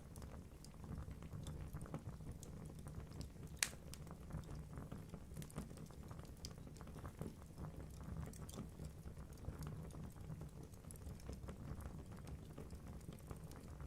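Wood logs burning in a fireplace, crackling with many small irregular snaps over a low rumble of flame, and one sharper, louder pop about a quarter of the way in.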